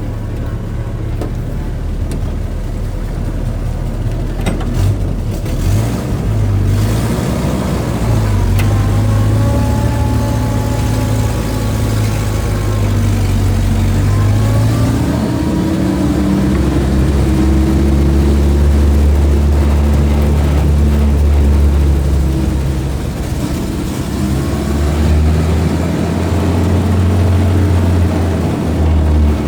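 Military deuce-and-a-half (2.5-ton) dump truck engine running under load at freeway speed. About halfway through, its note drops lower and grows louder.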